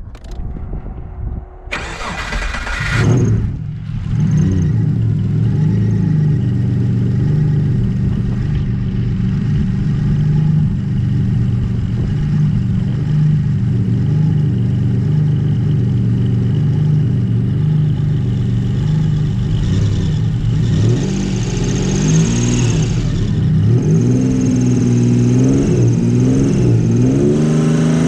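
Big-turbo Subaru EG33 3.3-litre flat-six cranking and catching about three seconds in, then idling with an even pulse, with a few revs blipped near the end.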